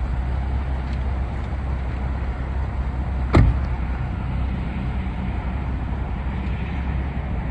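Pickup truck engine running steadily with a low rumble, and a single sharp thump about three and a half seconds in.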